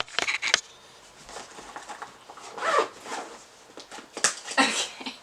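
Handling noise: rustling and rubbing, with two short zip-like rasps, one a little past halfway and one near the end.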